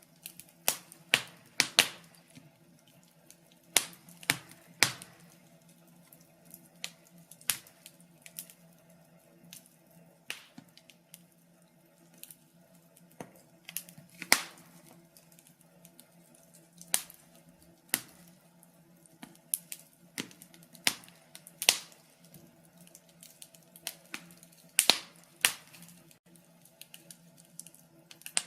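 Wood fire crackling in a fireplace: irregular sharp pops and snaps of burning logs, some loud, over a faint low steady hum.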